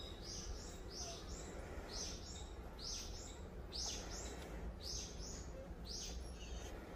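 A small bird chirping in a steady rhythm: two short, high, falling notes about once a second, over a low steady hum.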